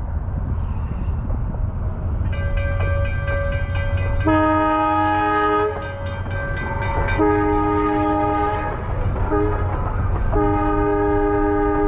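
An electric steeplecab locomotive's horn sounding the grade-crossing signal: two long blasts, a short one, then a long one, over a steady low rumble. A thinner steady tone runs under the first blasts.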